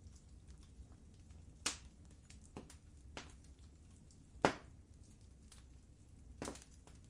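Wood fire burning in a fireplace: a soft steady rumble with scattered crackles and pops, the loudest about a second and a half in and again about four and a half seconds in.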